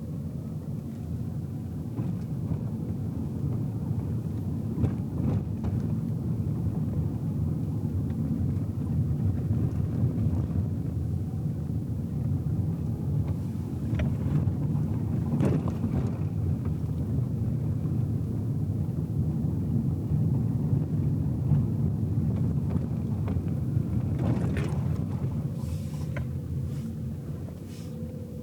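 Car driving, heard from inside the cabin: a steady low rumble of tyres on the road and the engine. A few short knocks or ticks come through about halfway and again near the end.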